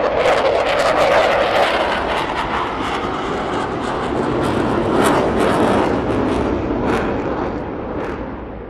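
Jet engine noise from the C-17 Globemaster III's four Pratt & Whitney F117 turbofans: a loud, steady rush with frequent crackles, easing off near the end.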